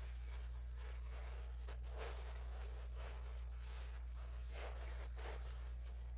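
Plastic-jacketed insulation sleeve of flexible ductwork rustling and scraping in irregular strokes as it is worked over another duct's insulation. A steady low hum runs underneath.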